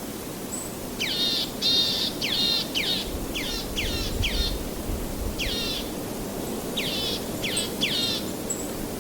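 A songbird singing a series of quick, sharply falling chirps in bursts over a steady rushing noise.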